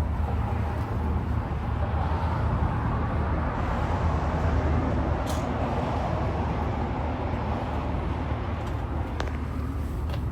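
Pickup truck running: a steady low engine rumble with road or idle noise, and a few faint clicks about halfway and near the end.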